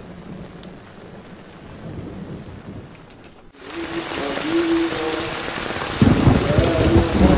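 Heavy rain falling steadily on the ground and roofs. About three and a half seconds in it cuts to louder, closer rain, and a deep rumble joins near the end.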